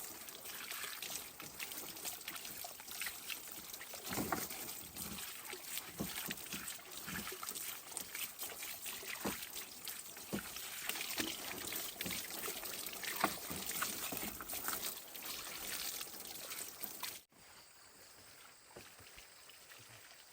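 Water pouring and trickling with many small irregular splashes and knocks. It cuts off suddenly about three seconds before the end, leaving a much quieter background.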